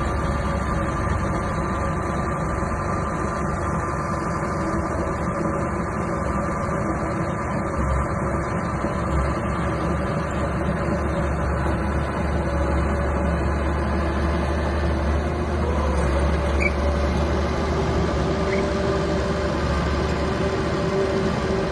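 Small bulldozer's engine running steadily while working dirt, a continuous low drone with its level changing little.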